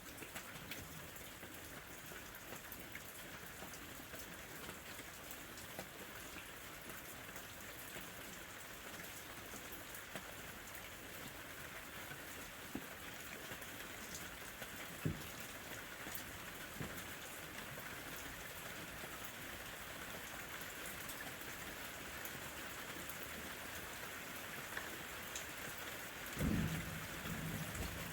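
Steady summer rain falling, a continuous hiss with scattered individual drops ticking on a surface. Near the end there is a brief low rumble.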